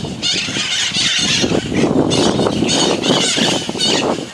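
A flock of parrots screeching and squawking, many harsh calls overlapping. A low rushing noise runs under the calls through the middle.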